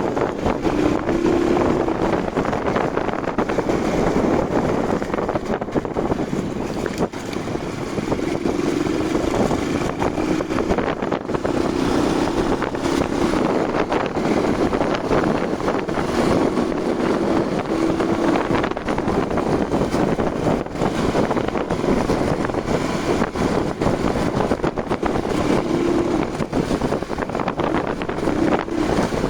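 Motorcycle running on the road while being ridden, with heavy wind buffeting the microphone and the engine note rising and falling now and then.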